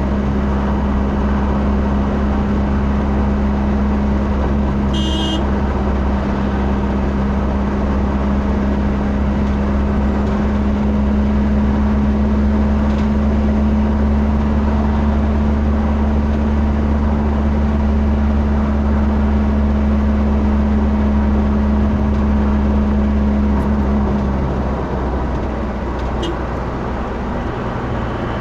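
A motor vehicle running steadily, a continuous low engine and road drone with a steady hum on top. The hum fades out about 24 seconds in, and the drone eases slightly.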